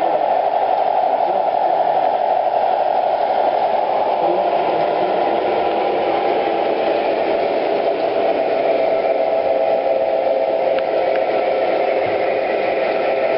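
O scale model trains running on track: a steady hum of motors and rolling wheels with a few constant tones in it.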